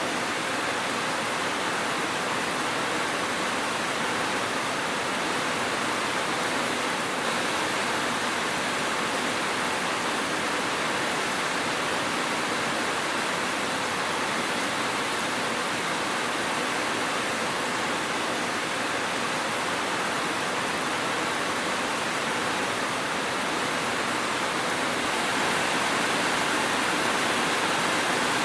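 Steady rain falling, an even hiss with no single drops or thunder standing out, growing a little louder near the end.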